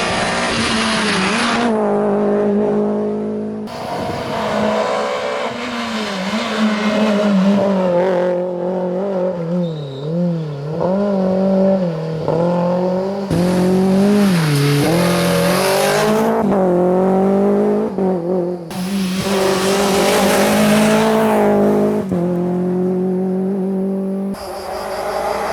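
Rally car engine revving hard. Its pitch climbs and drops repeatedly through gear changes and lift-offs. The sound jumps abruptly every few seconds as one pass cuts to the next.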